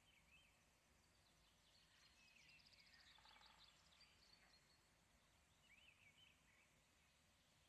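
Faint birdsong over a quiet outdoor hiss: a few short chirping phrases, with a fast trill about three seconds in and more chirps near the end.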